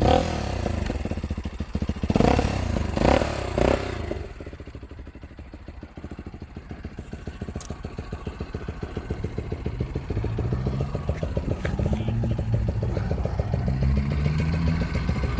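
Lexmoto LXS motorcycle running through a Lextek stainless aftermarket exhaust: three short throttle blips about two to four seconds in, a lower steady note, then revs that climb in pitch in steps through the second half.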